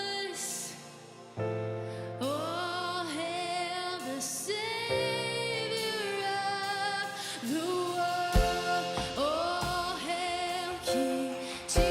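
Worship song performed by a band with a woman leading the singing, holding long notes with vibrato over sustained keyboard-like chords. The music drops back briefly about a second in and then swells again, with deep drum hits in the second half.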